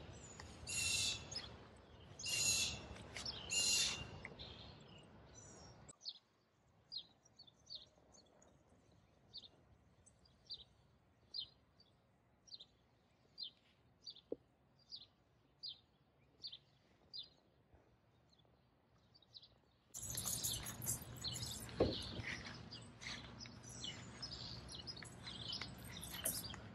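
Songbirds calling: a few loud, bright calls about every second and a half at first, then a faint run of short, high chirps about one a second. Near the end, louder outdoor background noise with a single sharp knock.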